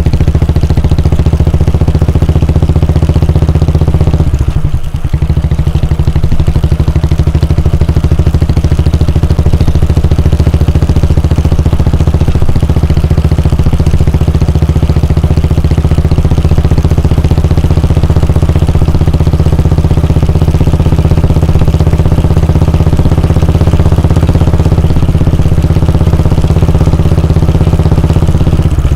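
Royal Enfield Bullet 350's 349 cc air-cooled single-cylinder engine running steadily at an unchanging speed, with a brief drop in sound about four to five seconds in.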